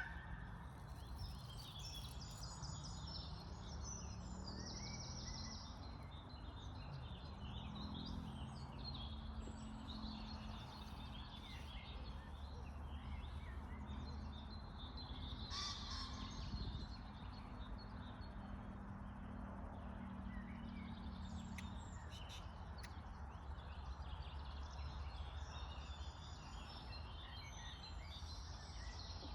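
Outdoor ambience: many birds chirping and calling over a steady low rumble, with a faint low drone in the middle that later fades out.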